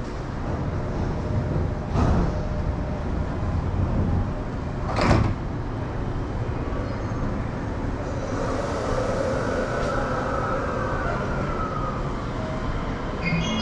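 Commuter train doors sliding shut, with two sharp thuds about two and five seconds in, over the rumble of the train at the platform. From about eight seconds in the train starts pulling away, with a motor whine that rises and then falls.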